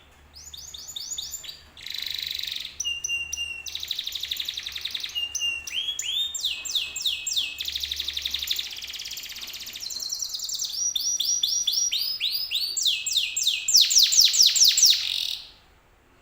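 Domestic canary singing a long, unbroken song of fast trills, rolls and quickly repeated sweeping chirps, stopping abruptly near the end.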